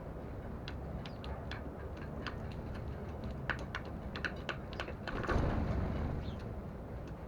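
Sparrows pecking seed from a plate: a rapid, irregular run of sharp little ticks. A brief louder rush comes about five seconds in, over a steady low background hum.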